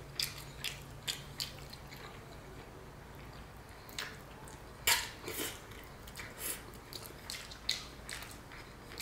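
Close-up eating sounds of a mouthful of rice and chicken eaten by hand: chewing with scattered wet mouth clicks and smacks. The loudest click comes about five seconds in.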